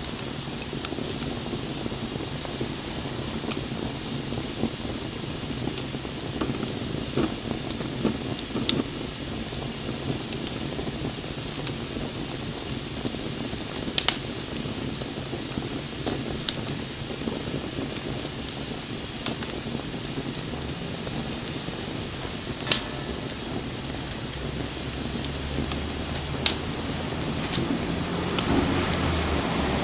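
Wood fire burning with a steady hiss and scattered crackles and pops, three of them sharper than the rest. A low rumble builds near the end.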